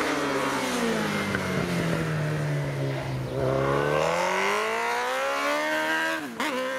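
Superbike racing motorcycle engine, pitch falling for about two seconds as it slows, then rising steadily under hard acceleration, with a quick dip for a gear change about six seconds in.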